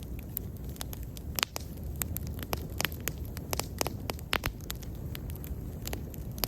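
Wood bonfire burning, with sharp irregular crackles and pops over a steady low rumble of flame.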